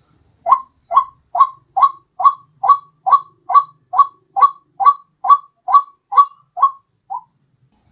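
White-breasted waterhen calling as a bird lure: a steady run of about fifteen identical short 'ruak' notes, a little over two a second, ending with a fainter note about a second before the end.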